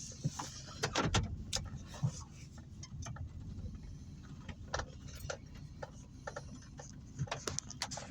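Heavy rain, with irregular drops and drips ticking and splashing close by over a low steady rumble.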